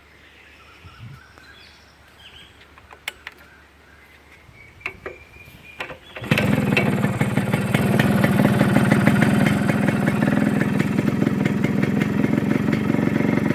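Yamaha RX100's two-stroke single-cylinder engine: a few faint clicks and knocks, then about six seconds in it starts and runs steadily.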